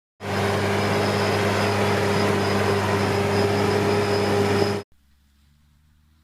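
Tractor engine running steadily, with a thin high whine over it. It cuts off abruptly after about four and a half seconds, leaving only a faint low hum.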